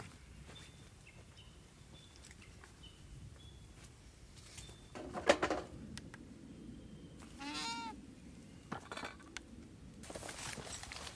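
An animal's short wavering bleat, goat-like, about two-thirds of the way in. A brief sharp knock comes a couple of seconds before it.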